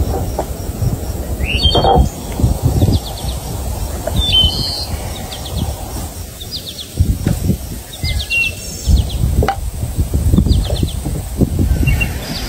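Small birds chirping, with short quick trills of repeated high notes several times, over an uneven low rumbling noise that comes and goes and is louder than the birds.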